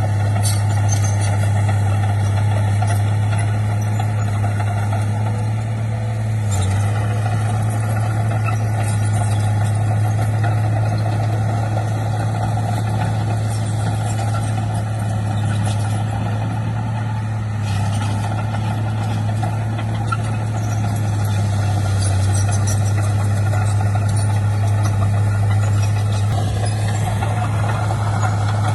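Heavy diesel engine of earthmoving equipment running steadily, a low even drone with no clear revving.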